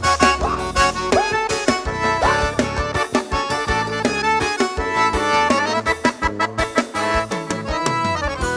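Forró band playing an instrumental passage live, an accordion-like lead melody with sliding notes over bass and a regular drum beat.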